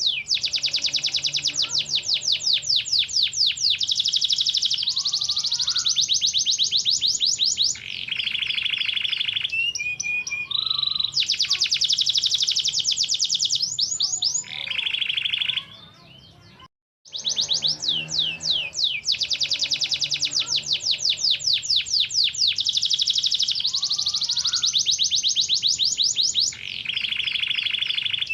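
Parisian frill canary singing: long, rapid trills of repeated high notes, switching from one trill to the next every second or two. The song stops briefly about halfway through, then resumes.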